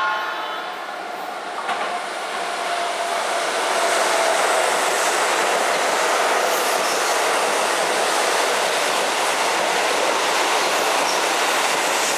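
Hokusō Railway 7260-series electric train passing close by. A horn note cuts off just after the start, then the steady rumble and clatter of the wheels on the rails swells over the first few seconds and holds while the cars go past.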